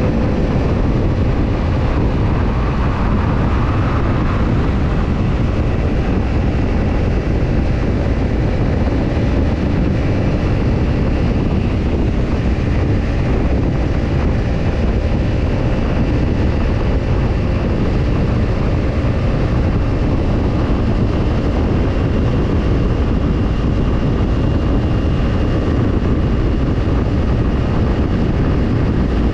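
Kawasaki Ninja 250's parallel-twin engine running through a BEET Nassert Evolution Type II black-titanium slip-on muffler, holding a steady engine speed with no marked revving or shifting. The exhaust note is loud and strongest in the low range.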